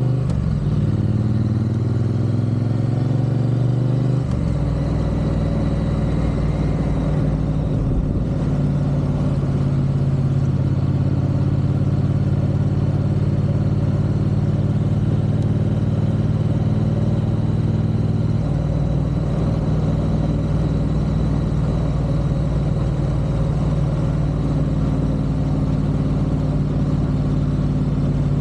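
Triumph parallel-twin motorcycle engine under way, rising in pitch for the first few seconds, dropping abruptly about four seconds in as it shifts up, then running at a steady cruising pitch.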